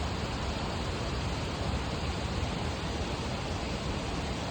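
Steady rushing noise with a low rumble beneath it and no distinct events.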